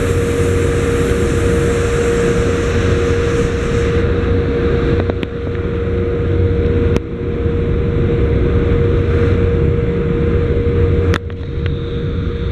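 A RoRo ferry's engines running with a loud, steady drone and a constant hum, broken by a few sharp clicks.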